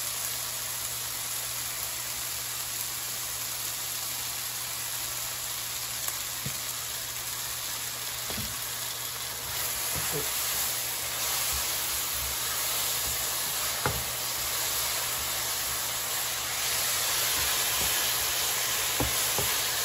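Sliced pears frying in hot vegetable oil in a nonstick pan, sizzling steadily just after honey and cinnamon are added, while a spatula stirs them with a few light scrapes and clicks against the pan. The sizzle grows louder about halfway through and again near the end.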